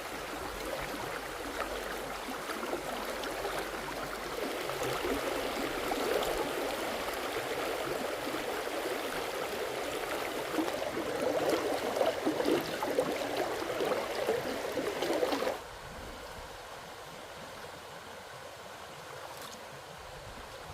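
Water gurgling and splashing, which cuts off abruptly about fifteen seconds in, leaving a quieter steady hiss of outdoor ambience.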